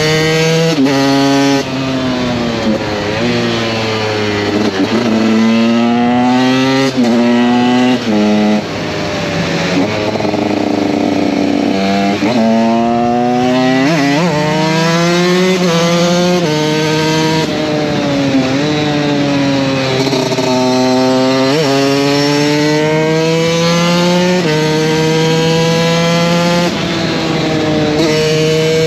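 KTM 125 SX two-stroke single-cylinder motocross engine, ridden under load. Its pitch repeatedly climbs and then drops sharply as it revs through the gears, and it falls back between pulls.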